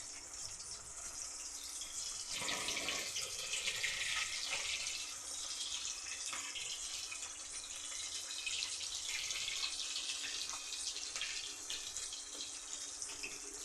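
Running water: a steady splashing hiss that swells and eases.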